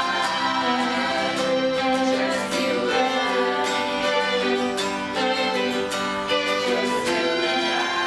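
Instrumental passage of a pop song without vocals, with held violin-like string notes over guitar.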